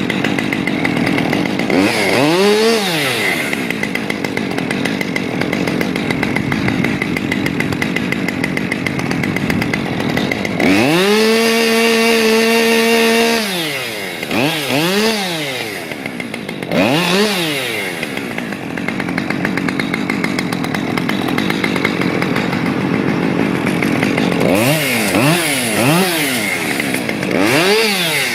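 Chainsaw running and being revved up and down again and again, held at high speed for a couple of seconds about halfway through, with several quick revs near the end.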